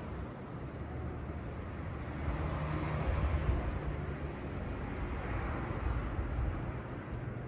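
Rumble of a passing vehicle, swelling about three seconds in and again around five to six seconds, then easing.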